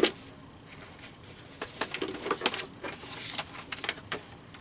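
Paper cut-outs being handled on a craft table: a sharp tap right at the start, then light rustling and small scattered clicks of paper being moved and set down.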